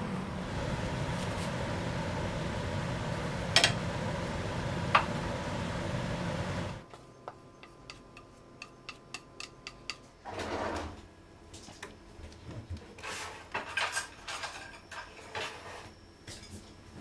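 Dishes and cutlery clinking and tapping during kitchen work. A steady rushing noise with two sharp knocks fills the first seven seconds or so and then cuts off, leaving the scattered small clinks.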